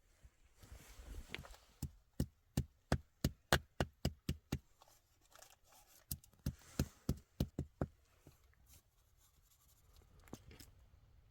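Two runs of sharp, regular knocks, about three a second, from a hand tool or object striking a hard material during shelter building, with a brief pause between the runs and some rustling just before the first.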